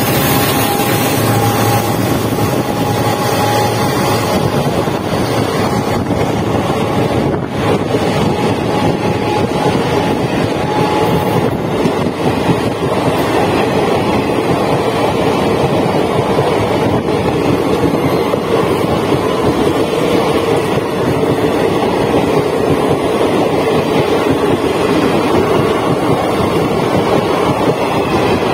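Passenger train coaches running past close at speed: a steady, loud rush of wheels on rail and moving air, with wind buffeting the microphone.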